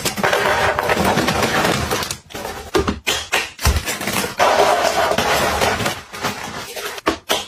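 Rustling and tapping of plastic packaging and containers being handled while a fridge is restocked, with a few brief knocks.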